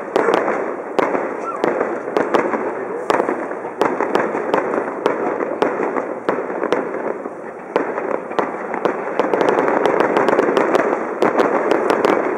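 Distant fireworks display: a steady succession of sharp bangs from bursting shells, quickening into a rapid volley of reports in the last few seconds.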